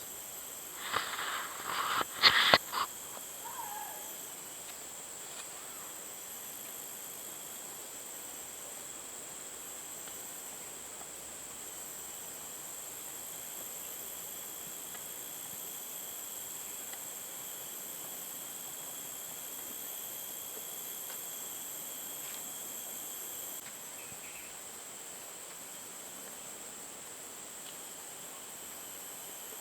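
Steady high-pitched insect chorus, several held tones at once, with a few sharp knocks and clicks about one to three seconds in.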